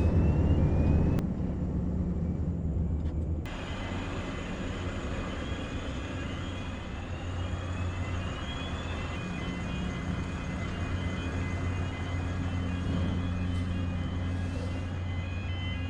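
Scania V8 lorry engine running steadily as the truck drives, a low, even engine note.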